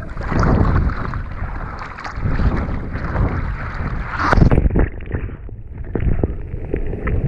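Seawater splashing and sloshing around surfboards being paddled out through small surf, with wind buffeting the microphone; a louder splash comes about four seconds in.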